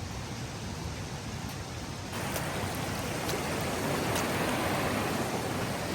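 Steady rush of water from a waterfall. About two seconds in the hiss jumps louder and brighter, and a few faint ticks come through after that.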